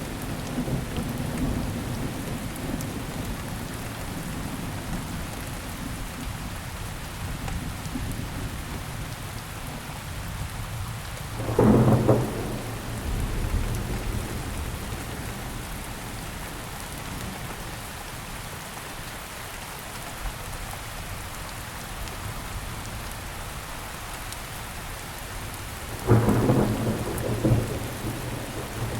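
Steady rain falling on surfaces, with thunder rumbling twice: a short loud crack and rumble about twelve seconds in, and a longer rolling rumble near the end.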